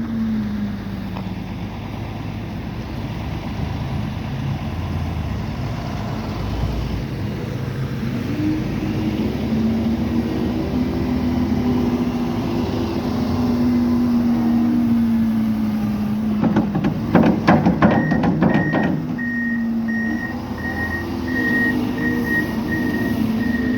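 Heavy diesel snow-removal equipment working: an engine runs and revs up and down, a quick run of rattling knocks sounds about 17 seconds in, and then a reversing alarm starts beeping steadily until the end.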